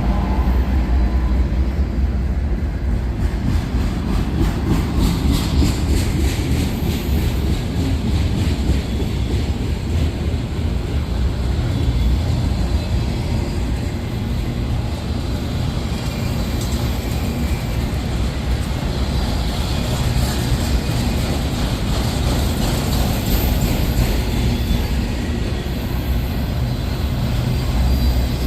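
Freight train cars rolling past: a steady, loud rumble of steel wheels on the rails, with a run of faint clicks about four to eight seconds in.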